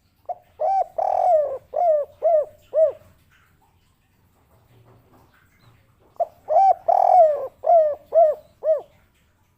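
Spotted dove singing its coo song twice. Each phrase is two short notes, one longer drawn-out coo, then three short clipped 'kuk' notes: the 'kuk 3' ending.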